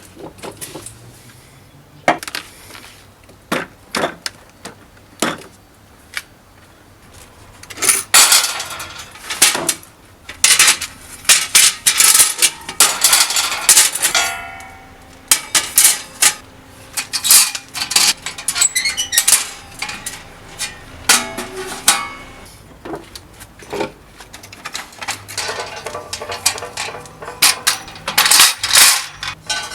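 Metal pieces clanking and clattering as they are handled and set down, in irregular bursts, some strikes ringing briefly.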